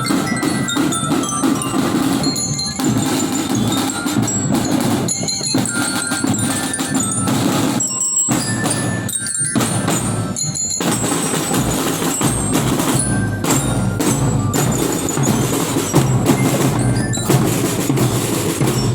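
Student marching drum band playing: drums beating under ringing bell-lyra (marching glockenspiel) notes carrying the tune.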